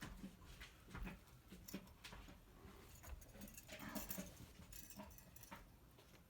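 Faint scattered rustles and light clicks from a pet moving about and playing.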